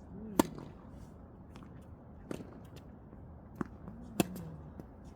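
Tennis rally: a racket strikes the ball with a sharp pop about half a second in and again just past four seconds, with softer knocks of the ball between.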